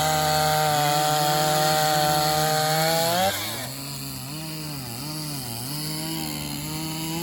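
Chainsaws at full throttle cutting through logs. About three seconds in, the loudest saw drops away and the engine note left falls lower and rises and sags repeatedly as it works in the wood, stopping near the end.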